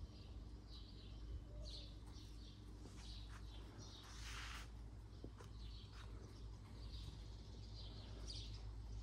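Small birds chirping in short calls, repeated throughout, with one brief louder rasping noise about four seconds in, over a faint low rumble.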